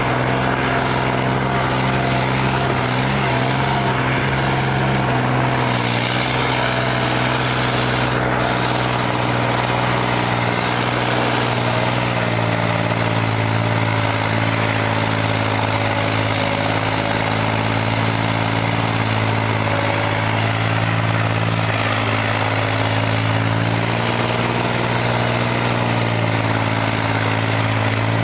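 Diesel tractor engine running steadily, its pitch wavering slightly in the first few seconds and then holding even.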